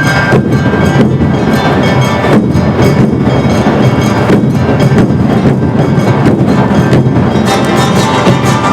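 Awa odori festival music, led by taiko drums and the clanging kane hand gong in a driving, steady beat. A high melody line drops out at the start and comes back near the end.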